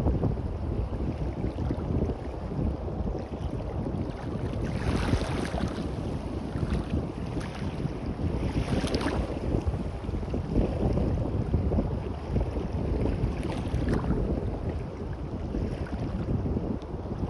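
Wind buffeting the microphone over waves washing on a beach, with swells of surf hiss about five and nine seconds in.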